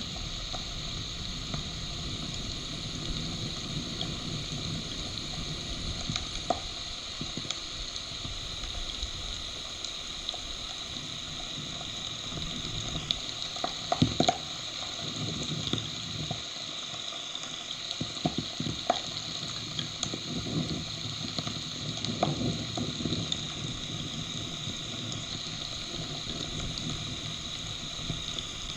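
Heavy thunderstorm rain falling steadily as a continuous hiss. Sharp taps of drops striking close to the microphone are scattered through it, bunched around the middle.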